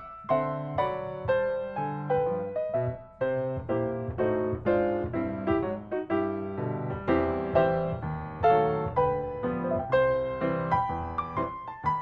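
Background piano music: a solo piano playing notes and chords at a gentle, even pace.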